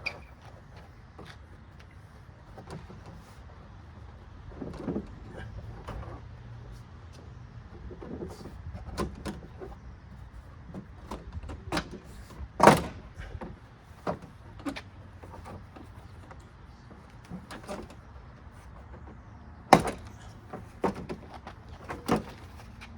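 Plastic pressure clips of a 2004 Ford Explorer's tailgate interior trim panel popping loose as the panel is pried off: scattered clicks and knocks, with a sharp loud pop about halfway through and another a few seconds later.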